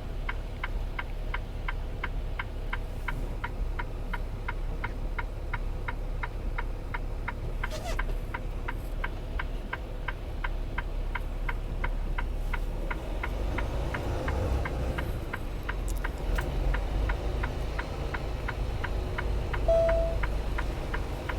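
Semi-truck turn signal clicking steadily in the cab, about three clicks a second, over the low rumble of the idling diesel engine. The engine rumble grows louder a little past halfway through as the truck pulls away.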